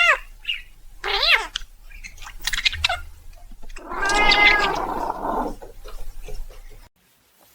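Cat meowing: two short rising-and-falling meows near the start, then a longer drawn-out meow about four seconds in. The sound cuts out near the end.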